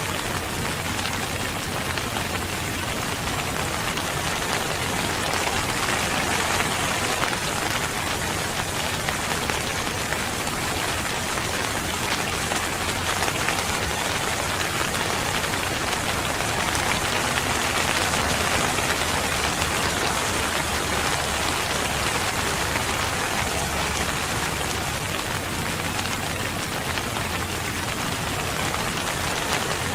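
Steady rain falling, an even, dense patter on surfaces.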